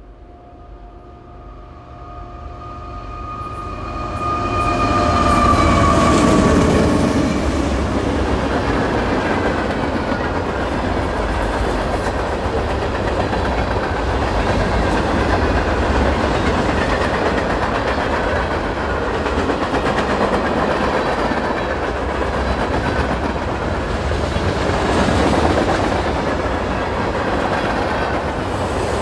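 A Norfolk Southern diesel-hauled freight train passing close by. The locomotives grow louder as they approach, and a steady whine dips in pitch as they go by about six seconds in. Then the freight cars roll past with a steady rumble of steel wheels on the rails.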